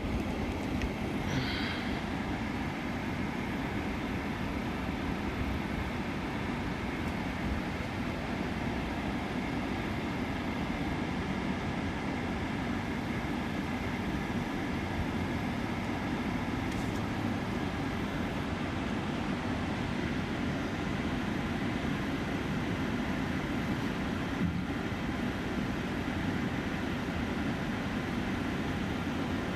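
Steady rumble of a vehicle driving, road and engine noise heard from inside, even throughout.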